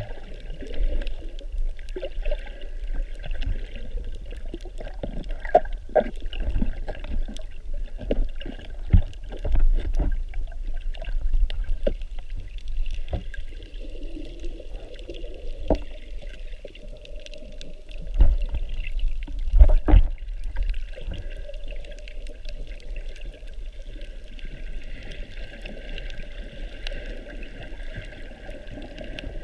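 Water sloshing and gurgling around a snorkeler's camera, with a steady low rumble and irregular knocks and thumps scattered throughout.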